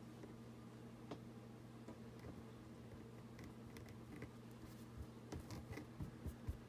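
Faint scattered taps and soft handling noises of paper being positioned and pressed down by hand onto a journal page, over a steady low electrical hum. The taps come closer together and thump a little more near the end.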